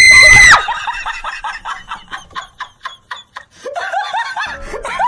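A person's loud startled scream, held on one high pitch and cut off about half a second in, followed by quick, repeated laughter.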